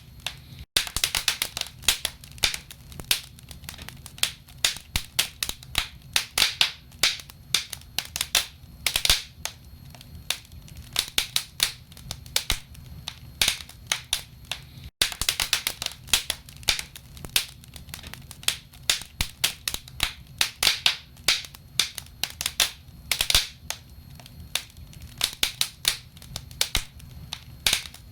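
Wood fire in a fireplace crackling, with dense, irregular sharp pops and snaps of burning logs over a low steady rumble of the flames.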